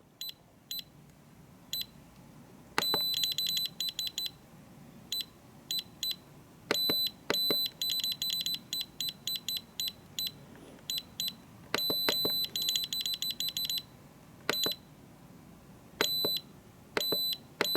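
Radio-control transmitter beeping as its buttons are pressed to change settings: single short high beeps and quick runs of many beeps, as a setting is stepped along value by value.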